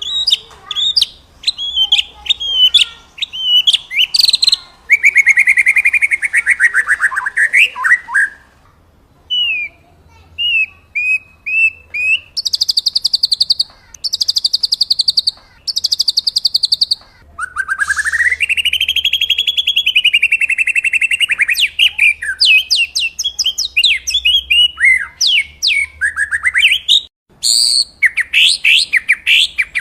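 Songbird song made of varied phrases: quick sweeping whistles, then a falling buzzy warble, three short bursts of fast rattling notes about halfway through, and a long rising-and-falling buzzy phrase before fast sweeping notes return near the end.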